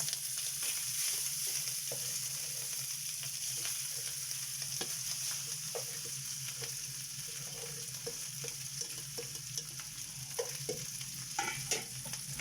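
Garlic fried rice frying in oil in a pan, with a steady sizzle and a spatula stirring, scraping and tapping against the pan at irregular moments. A few of the taps near the end are louder.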